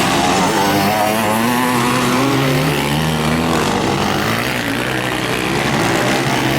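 Motocross bike engines racing, their pitch rising and falling as the riders rev and ease off, with more than one bike heard at once.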